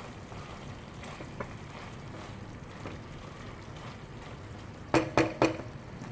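Steady low hiss of the chicken-and-sauce stir-fry simmering in the pan on a low flame. About five seconds in come three quick clattering knocks of kitchen utensils.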